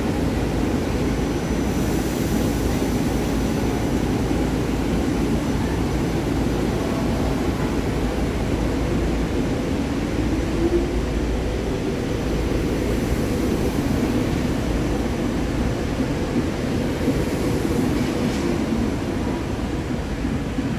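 SEPTA Regional Rail train moving through the station: a steady low rumble, with a short faint rising whine about halfway through.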